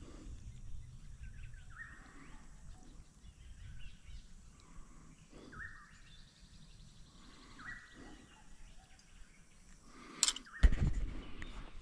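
A bird calls three times, a short clear note each, a few seconds apart. Near the end there is a sharp click, then a loud thump and rustling.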